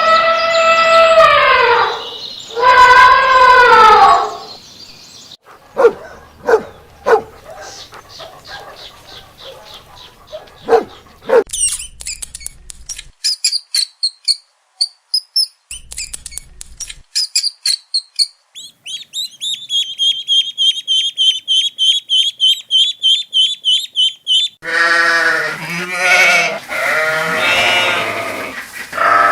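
A series of different animal calls, one after another: long pitched cries at the start, then short clicks and calls, high chirping, a fast even chirping run, and pitched calls again near the end.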